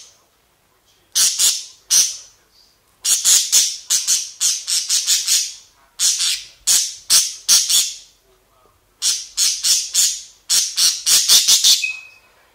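Budgerigar squawking harshly in rapid runs of short calls, in four bouts with brief pauses between: an agitated, angry budgie.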